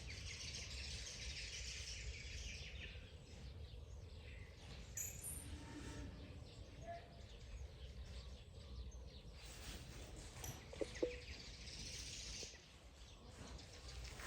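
Faint bird chirping over a steady low background hum, with a few brief short calls in the middle.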